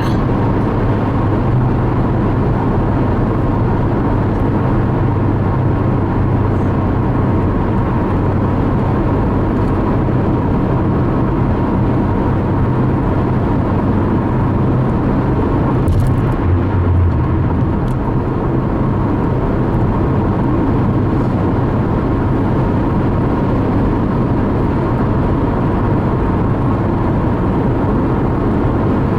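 Steady low road rumble and engine drone of a car cruising at highway speed, heard from inside the cabin.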